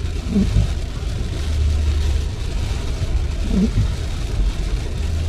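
Car driving on a wet road in the rain, heard from the cabin: a steady low rumble of road and tyre noise with rain hiss. The windshield wipers sweep twice, each pass giving a brief squeak that dips and rises in pitch as the stiff blades drag on the glass.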